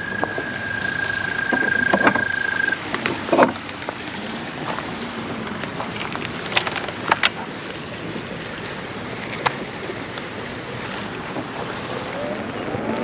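Veteran Sherman electric unicycle riding off, with a steady rush of wind and road noise and a few sharp knocks. A steady high whine stops about three seconds in, and a rising motor whine begins near the end.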